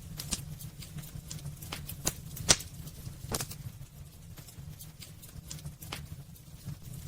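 Wood burning in a fireplace: irregular sharp crackles and pops, the loudest about two and a half seconds in, over a low steady rumble.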